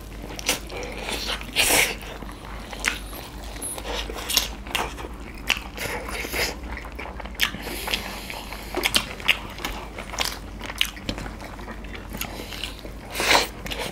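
Close-miked eating of chicken biryani by hand: chewing and lip smacks, irregular wet clicks with a few louder smacks.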